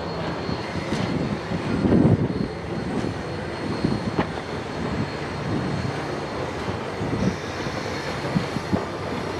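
Narrow-gauge train rolling across a steel trestle bridge: a steady rumble of wheels on rail with irregular clacks, and a heavier thump about two seconds in.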